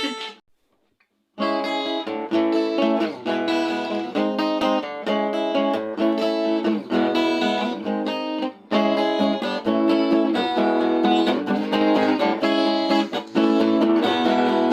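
Acoustic guitar strumming chords, starting about a second and a half in, with a brief break a little past the middle.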